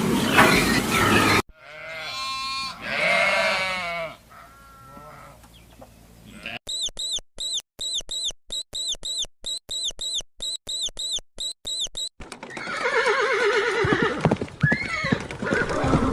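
A run of animal calls, with abrupt changes between them: first a pitched, wavering call, then a series of short high chirps at about three or four a second, then another drawn-out, wavering call.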